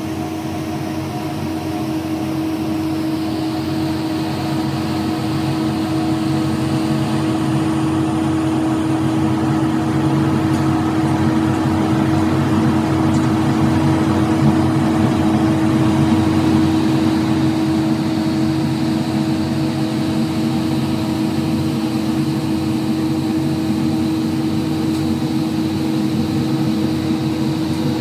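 Truck-mounted road sweeper running steadily: an engine hum over a rumble, holding one pitch throughout and growing slightly louder over the first dozen seconds.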